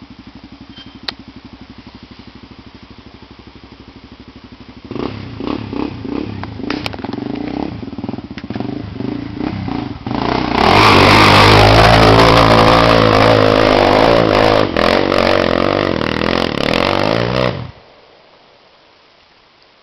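Trail motorcycle engine ticking over, then revving hard in uneven bursts from about five seconds in, getting much louder at about ten seconds as it works up a steep hill, and cutting off abruptly near the end.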